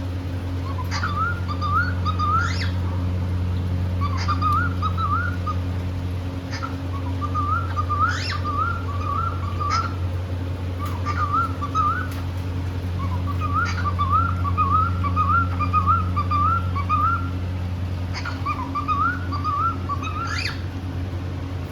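Cockatiel whistling its song: repeated short warbling phrases, each a quick wavering run of notes, broken by sharp rising whistles, over a steady low hum.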